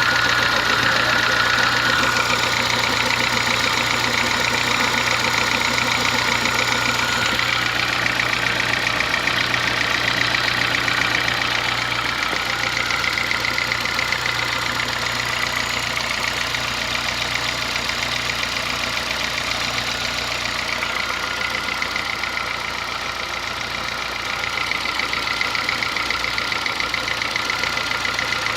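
Honda Fit gasoline engine idling with a steady, rapid clatter that sounds like a diesel Kombi or an old sewing machine. The owner says no gasoline engine should make this noise, a sign of a mechanical fault.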